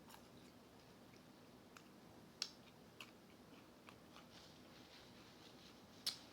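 Quiet chewing of fried chicken: soft mouth sounds with a few sharp crisp clicks, the loudest about two and a half seconds in and again near the end.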